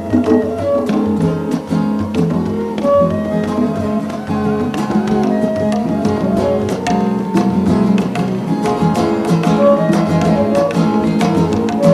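A live band plays an instrumental passage: a guitar-led melody over sustained chords, with a steady beat of drum and hand-drum strokes.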